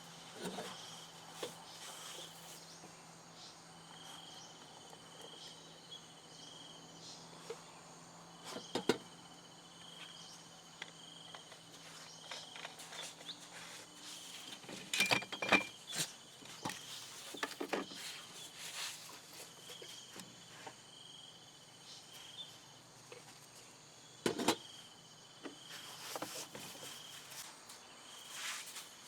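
Insects chirping in a steady pulsing trill, with a few sharp clicks and knocks scattered through, the loudest about halfway and again about three quarters of the way through.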